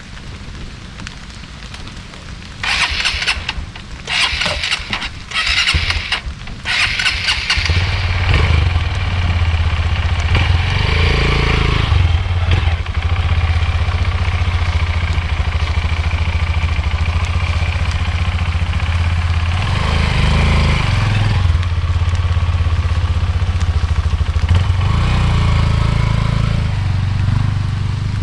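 Small motorcycle engine being started: four short bursts of cranking, then it catches about eight seconds in and idles steadily, swelling briefly twice.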